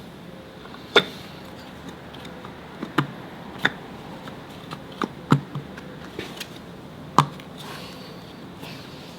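Irregular sharp clicks and knocks, about eight of them, from hand tools and metal parts being handled during work on a car's automatic transmission.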